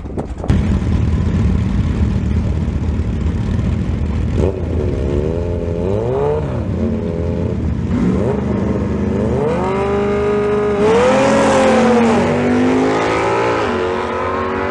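Kawasaki ZX-10R inline-four sport bike engine being revved up and down in repeated throttle blips while staged, over a low engine rumble from the car beside it. Near the end it launches, its note climbing steadily as it accelerates.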